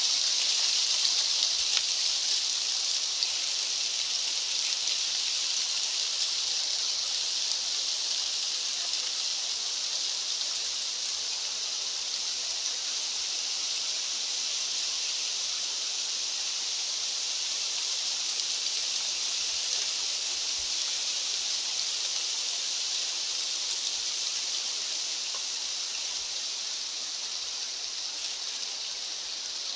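Steady, even high-pitched hiss of outdoor natural ambience, with no distinct events, easing slightly toward the end.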